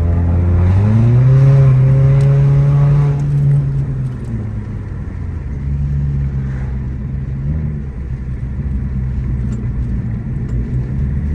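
Car engine accelerating: its pitch climbs about a second in and holds, then eases off after about three seconds and settles into a lower, steady running drone.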